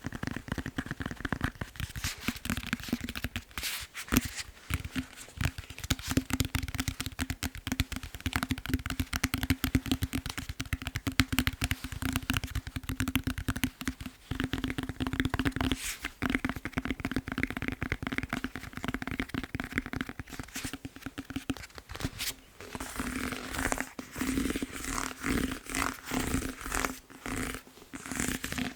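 Fast tapping on a foam massage roller: a dense run of quick taps and scratches, with a change in the pattern about three quarters of the way through.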